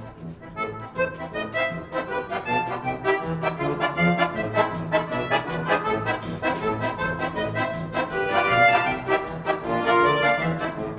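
Accordion orchestra playing a brisk dance piece: many accordions sounding quick, short notes over a pulsing bass line.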